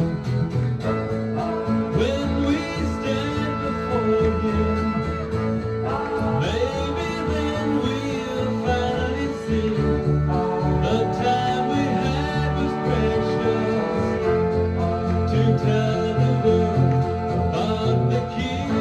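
Country gospel band playing an instrumental break: plucked guitar and a steady bass under a melody of long held notes that slide into each new phrase.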